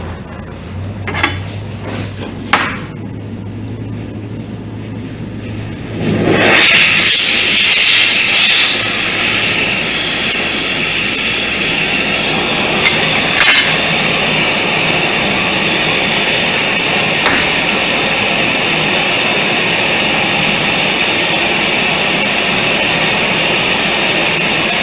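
A few sharp knocks, then about six seconds in a gas cutting torch's flame comes on suddenly with a loud, steady hiss as it heats the steel bar.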